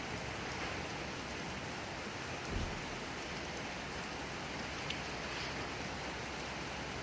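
Steady rain falling, an even hiss, with one brief low thump about two and a half seconds in.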